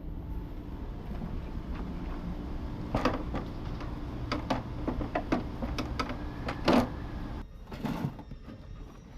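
Irregular knocks and clatters, as of tools or metal parts being handled, over a steady low hum. The loudest knocks come about three seconds in and again near seven seconds.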